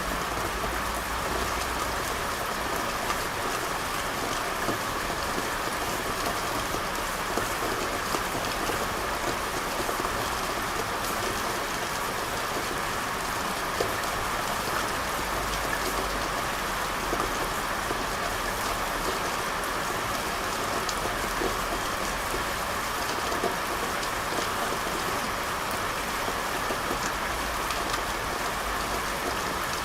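Steady rain falling on hard surfaces, with scattered small drip ticks. A low rumble comes and goes underneath.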